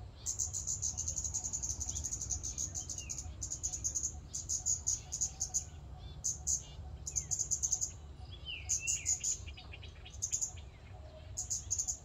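Scarlet-backed flowerpecker calling: rapid trains of high, thin ticking notes, about a dozen a second, in bursts of varying length separated by short pauses.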